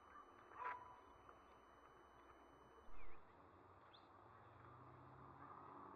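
Near silence: faint open-air background, broken by a short sharp sound under a second in and a brief dull thump at about three seconds.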